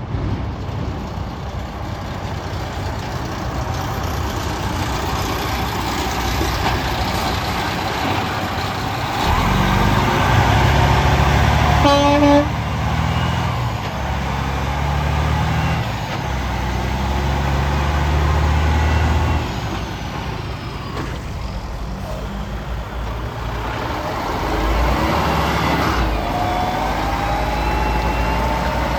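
Roadside traffic with heavy trucks driving past. A deep engine rumble swells for about ten seconds midway, and a short horn toot sounds about twelve seconds in.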